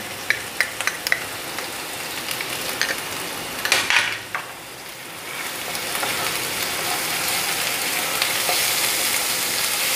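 Onion and green chilli paste sizzling in hot oil in a nonstick kadai as a spatula stirs it, being sautéed (kashano). There are a few light spatula knocks in the first second or two and a louder scrape about four seconds in, and the sizzle grows steadier and louder from about six seconds in as the paste is spread through the oil.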